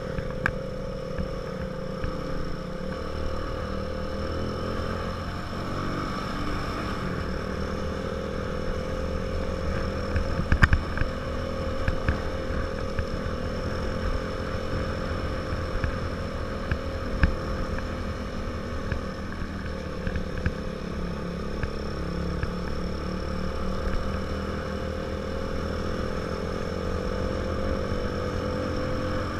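Small motorcycle engine running on the move, its note climbing and sagging with the throttle and dipping sharply twice. A sharp click about a third of the way through.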